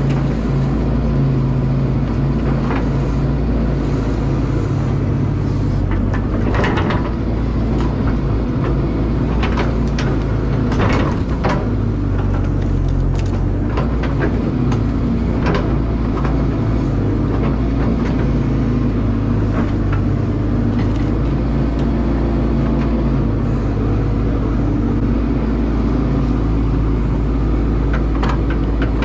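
Caterpillar excavator's diesel engine running steadily, with scattered sharp knocks and clanks from the digging.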